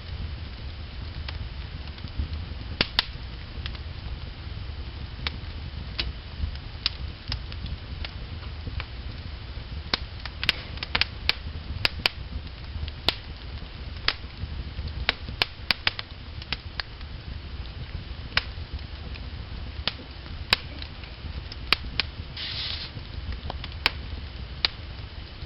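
Wood fire burning logs in a fireplace, crackling with irregular sharp pops and snaps over a steady low rumble, and a brief hiss about three-quarters of the way through.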